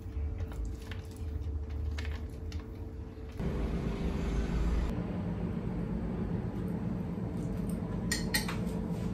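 Kitchen handling sounds: a steady hum, with a few light clinks of dishes or utensils about eight seconds in.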